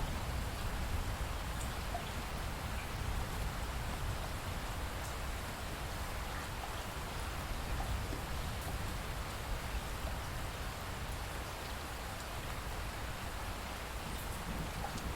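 Steady rainfall: an even hiss of rain with a low rumble underneath and a few faint drop ticks.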